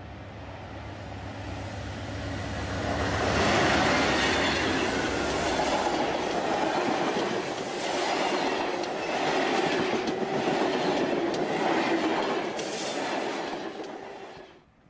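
Amtrak passenger train passing close by: a low locomotive rumble as it approaches, then a loud, steady rush of bilevel passenger cars going past with wheels clicking over the rail joints. The sound cuts off suddenly near the end.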